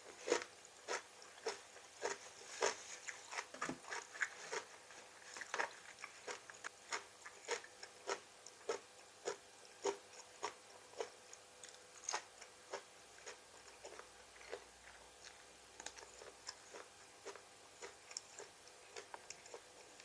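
A person chewing crunchy raw vegetables, with a steady run of crisp crunches a little under two a second that get softer in the second half.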